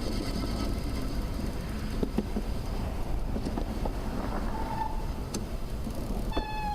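Steady road-traffic rumble and tyre noise heard from a bicycle on a busy multi-lane road, with a few sharp clicks and rattles. A high whine fades out about halfway through, and a brief high-pitched tone with several overtones sounds near the end.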